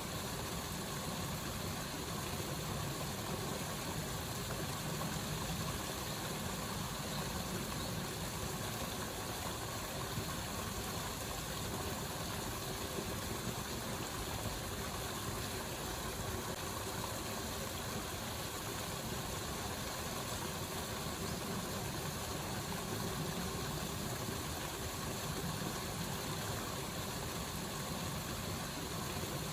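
Steady, even rush of a waterfall, unbroken throughout.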